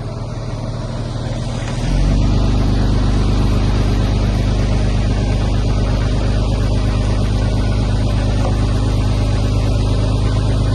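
Heavy-equipment diesel engine running steadily with a low, even drone, which grows louder about two seconds in and then holds.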